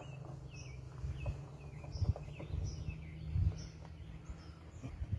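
A bird chirping over and over, short chirps that dip in pitch, over a steady low rumble with a few light knocks.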